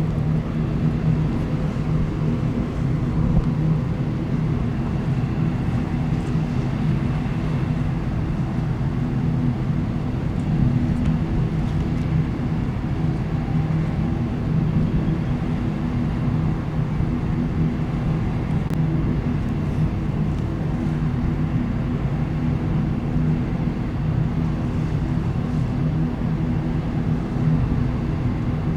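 Steady low drone of a large car ferry under way, its engines humming with a rumble of noise over it.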